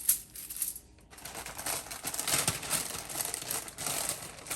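Crinkling of food packaging being handled, an irregular run of small crackles and rustles that starts about a second in.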